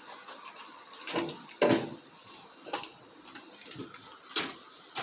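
A few separate knocks and rustles of food packages being handled and put away.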